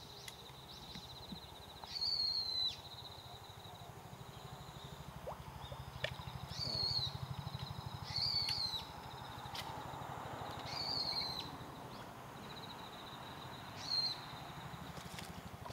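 A bird calling outdoors: a short, high, down-curving call repeated about six times, a few seconds apart, over a steady fast buzzing trill at about the same pitch.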